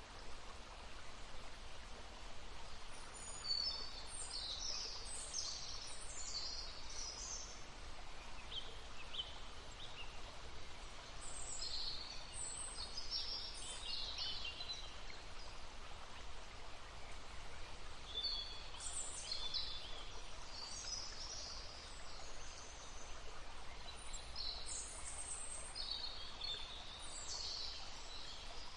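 Songbirds singing high, quick chirping phrases in four bouts a few seconds apart, over the steady rush of a brook.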